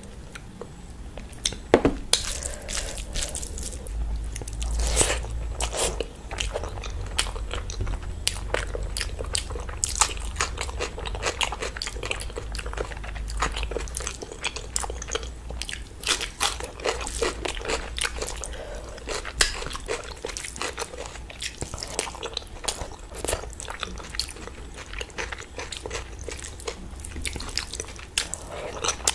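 Close-miked chewing and biting of rice and curry, a rapid run of crackles, clicks and crunches.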